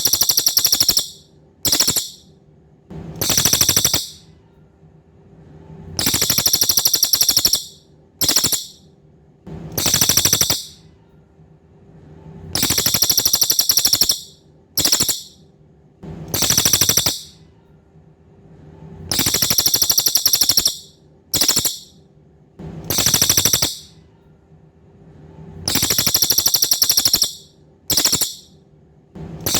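A cililin songbird's song of high, rapidly pulsing rattling phrases. They repeat in a regular cycle of one long phrase, one short burst and one medium phrase about every six and a half seconds, as in a looped song recording. A faint steady hum runs underneath.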